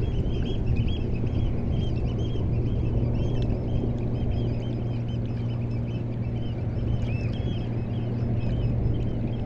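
Sea water moving along the shore on the incoming tide, with a steady low hum underneath and a flock of birds calling throughout in many short, high, repeated notes.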